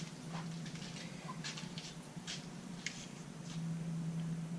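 Scattered light clicks and taps of a measuring tool being handled and set against the workpiece, over a steady low hum.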